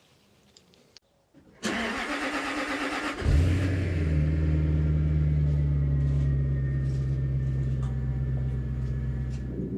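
Jaguar XK8 V8 being started: the starter cranks for under two seconds, then the engine catches with a loud burst and settles into a steady idle.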